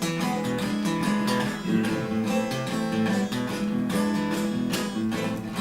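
Acoustic guitar strummed in an instrumental break between sung verses, with no voice.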